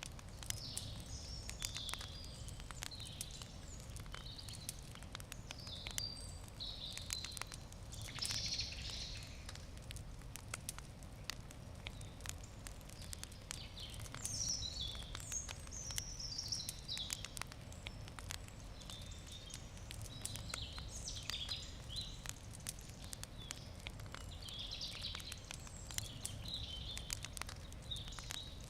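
Wood campfire crackling, with frequent sharp pops and snaps throughout. Birds chirp and call over it, and a steady low outdoor rumble lies underneath.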